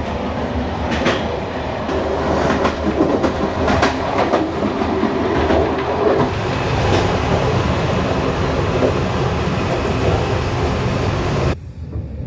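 Sleeper train running along the track: a loud, steady rolling rumble with sharp clacks from the wheels over rail joints. Near the end it cuts off suddenly to a quieter low rumble.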